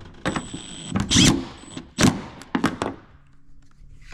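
Small cordless impact driver with a socket running briefly with a thin high whine, then several sharp metallic knocks and clatter. The socket keeps coming off the driver's anvil.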